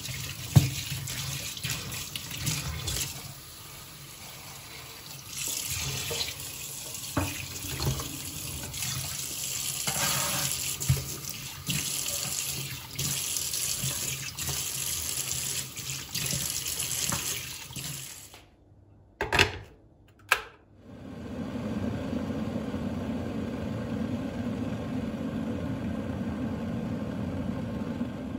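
Water running from a sink tap during sink washing, with occasional knocks and clinks. About two-thirds of the way through the water stops, two sharp clicks follow, and then a steady low hum takes over.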